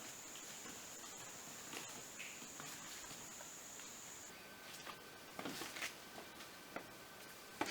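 Faint forest ambience: an insect's thin, steady high-pitched trill that stops about halfway through, with scattered soft clicks and rustles like footsteps on rock and leaf litter, a few more toward the end.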